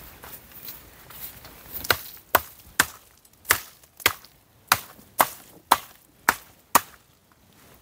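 Dry deadwood being chopped by hand: about ten sharp strikes at roughly two a second, starting about two seconds in and stopping shortly before the end.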